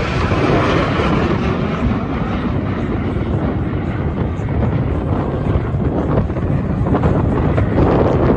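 An aircraft flying by, its engine noise a steady rumble that eases off toward the end. Wind buffets the microphone.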